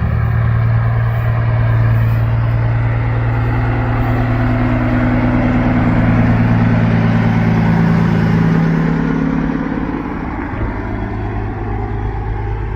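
Vehicle engine running, its pitch rising gently in the middle and dropping off about two-thirds of the way through.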